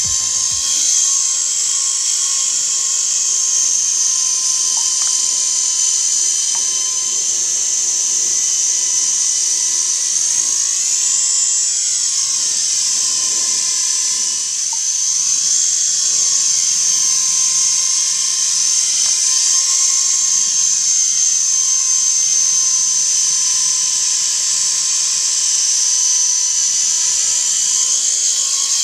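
S031G remote-control helicopter's small electric motors and rotors running in flight with a steady high-pitched whine.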